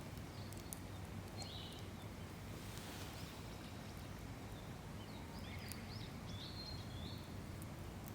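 Steady low background hum with short bird chirps, one about half a second in and a cluster in the second half, and a few faint scattered clicks.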